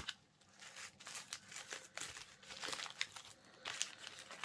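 Packaging being handled and unwrapped, crinkling in short, irregular crackles.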